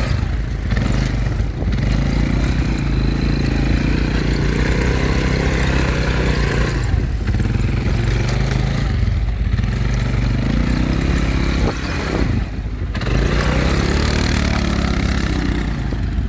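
Quad bike engine running while riding, its pitch rising and falling several times as the throttle is opened and eased off, with a few brief dips.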